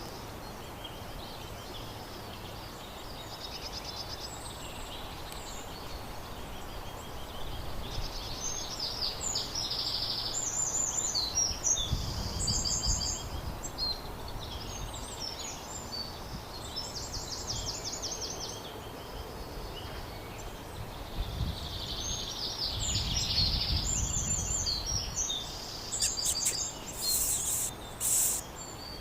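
Small woodland birds chirping and trilling over a steady outdoor background, busiest in the middle and again towards the end, with a few short sharp noises near the end.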